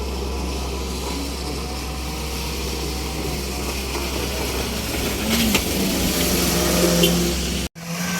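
Vehicle engine noise with a steady low drone and a hiss of noise over it. The sound drops out abruptly near the end, and a steady hum resumes after it.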